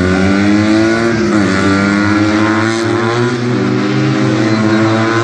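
Classic car's engine revving hard while it drives a tight course. The pitch climbs, dips sharply about one and a half seconds in, then climbs and falls again.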